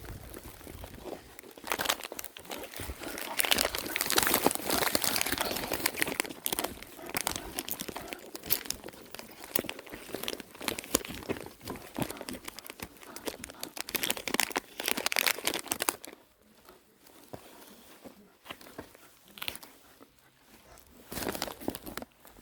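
Crinkling and crackling noises, dense for about sixteen seconds and then sparse.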